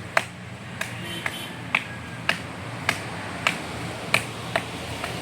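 A series of sharp clicks or knocks, about two a second and fairly even, over a faint low hum.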